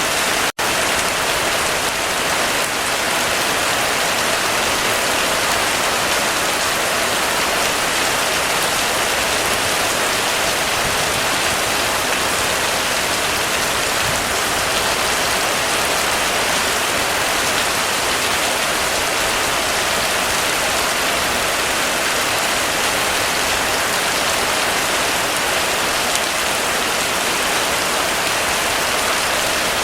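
Heavy rain falling steadily, a dense, even hiss with no thunder. Less than a second in, it cuts out for an instant and comes straight back.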